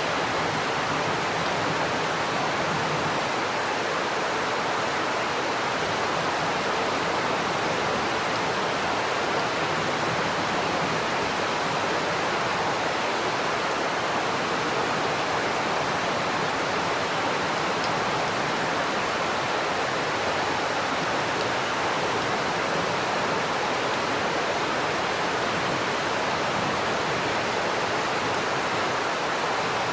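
Steady heavy rain: an even, unbroken hiss with no thunder claps.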